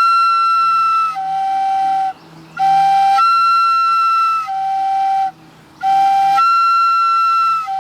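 Mouth-blown Common Loon game call with no moving parts, sounding the loon's locate call. Three clear whistled phrases: each starts on a short low note, jumps to a held high note about an octave up, then drops back to the low note as the air pressure is eased off.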